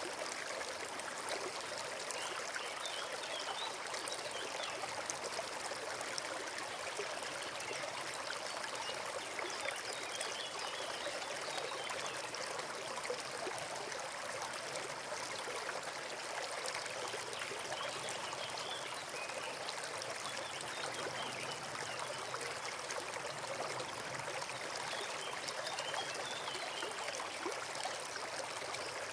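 A forest stream running, a steady rush and trickle of water with no breaks. Faint high chirps come through a few times.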